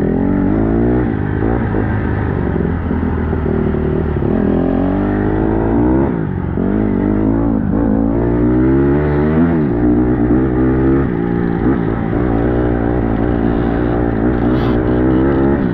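Dirt bike engine being ridden with the throttle worked on and off, its pitch rising and falling every second or two.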